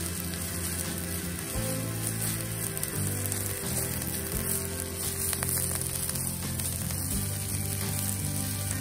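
Chopped sweet leaf (cekur manis) and aromatics sizzling in a frying pan as they are stir-fried, the leaves' liquid cooking off. Background music with low sustained notes runs underneath.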